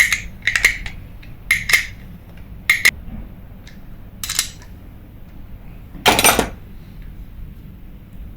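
Small metal fishing-reel parts clicking and clinking as they are handled and fitted, in a string of short light taps, then a louder scrape lasting about half a second, about six seconds in.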